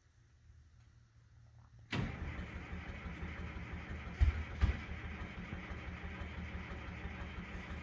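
Timberjack skidder's diesel engine starting from cold in freezing weather. It catches suddenly about two seconds in and settles into a steady run, with two heavy low thumps a couple of seconds later.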